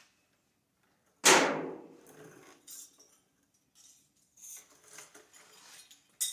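Loose metal door hardware (hinge and latch pieces) clanking onto a hard surface: one loud clank about a second in that rings briefly, then smaller clinks and rattles, and a sharp clink near the end.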